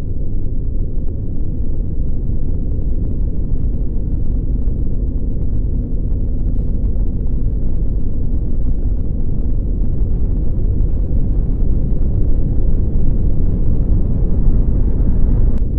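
Steady low rumble from earthquake shaking, picked up by a fixed camera's microphone during the magnitude 5.8 quake.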